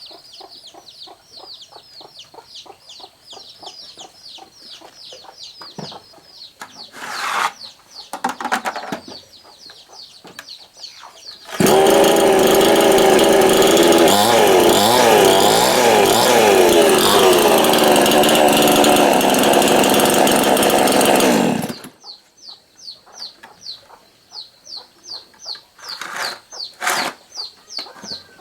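Honda CX68s chainsaw engine running for about ten seconds after its repair, revving up and down, then cut off suddenly. Before it starts there are two short rasping noises.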